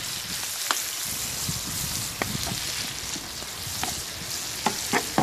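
Sliced onions frying in rendered pork fat in a frying pan, giving a steady sizzle as they are stirred with a metal slotted spoon. A few sharp clicks come through the sizzle.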